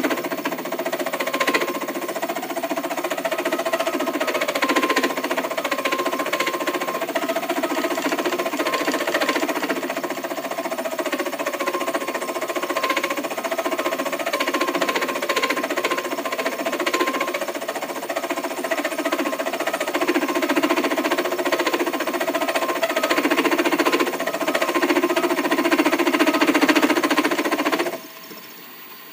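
Swedish combination lathe-mill-drill-saw machine running: a whine that wavers in pitch over a fast, dense mechanical clatter. It shuts off abruptly near the end, leaving a faint hum.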